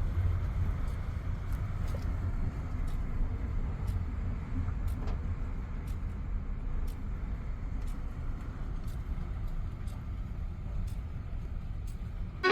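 Low, uneven rumble of a heavy truck on the road.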